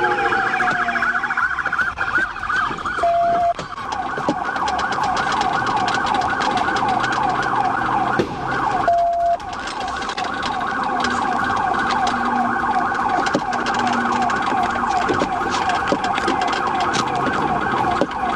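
Police car siren in yelp mode, a fast rising-and-falling warble held for the whole stretch. A slower falling wail ends just after the start, and a short steady tone cuts in about 3 seconds in and again about 9 seconds in.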